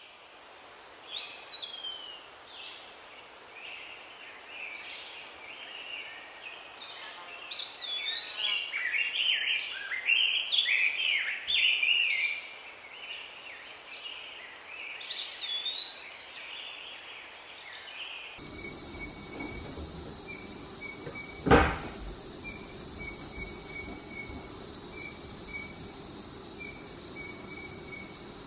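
Several wild birds calling and chirping over each other, with whistled rising and falling notes. About two thirds of the way in the sound switches to a steady high buzz with a regular run of short repeated chirps, broken once by a single sharp knock.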